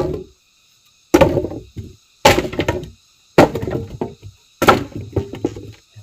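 Wood being chopped with a blade: five hard strokes about a second apart, each followed by a short crackle of splintering, with a faint steady drone of forest insects behind.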